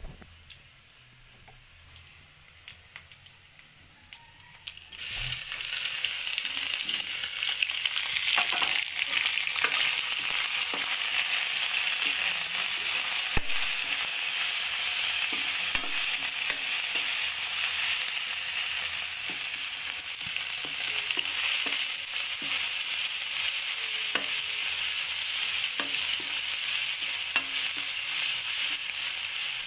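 Onion and masala frying in hot oil in an aluminium kadai. The sizzle comes on suddenly about five seconds in and holds steady, with the clicks and scrapes of a metal spatula stirring against the pan.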